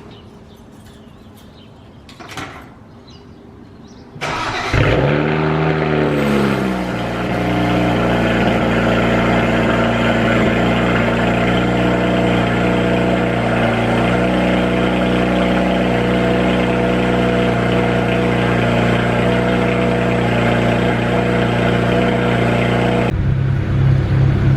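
BMW 335is's N54 twin-turbo inline-six cold-starting on its original exhaust: the starter cranks about four seconds in, the engine catches and flares in revs, then settles into a steady fast cold idle. The sound changes abruptly near the end.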